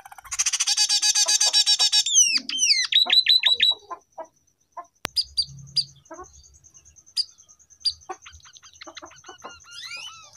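Scaly-breasted munia (emprit peking) singing learned canary song: a fast, dense trill for the first two seconds, then a run of quick downward-sweeping notes, then after a short pause scattered sharp chips over a thin, even run of high ticking notes.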